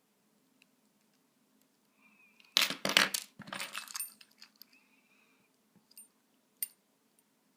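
A budgie knocking small hard objects about on a tabletop: a burst of clattering and rattling about two and a half seconds in that lasts about a second and a half. A few single light clicks follow near the end.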